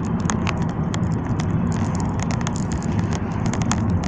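Road noise inside a moving car: a steady low rumble from engine and tyres, with many small, irregular clicks and ticks over it.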